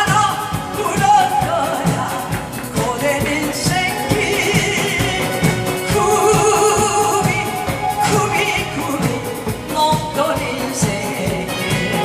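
A singer singing a Korean trot song live over accompaniment with a steady beat.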